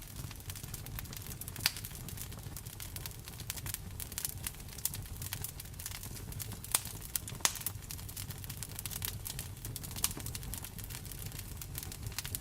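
Wood fire in a fireplace crackling steadily with many small sharp snaps, a few louder pops among them, over a steady rain hiss and low rumble.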